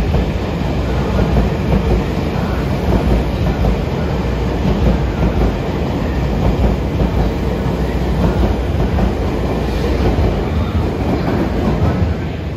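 Tobu 50000-series electric commuter train pulling out of the station, its cars rolling past close by with a loud, steady running noise of wheels on rails.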